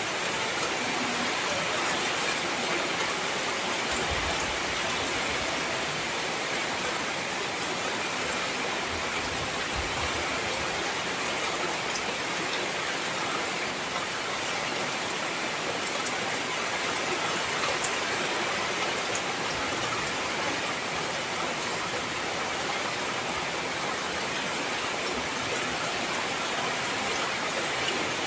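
Heavy rain falling steadily: an even hiss with scattered small ticks of drops.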